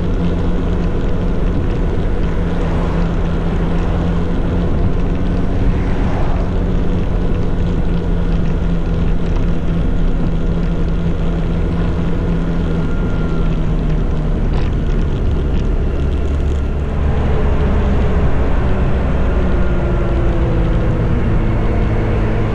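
Motorcycle engine running steadily at road speed on the move. Near the end the low rumble grows louder and the engine note slides lower.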